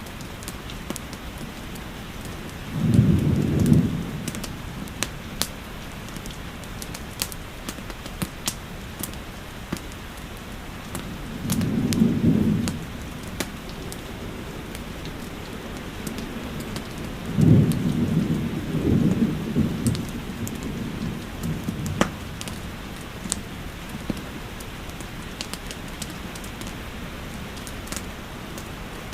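Steady rain with frequent sharp pops from a crackling fireplace, and several low rumbles of thunder, the loudest about three seconds in and again near the two-thirds mark.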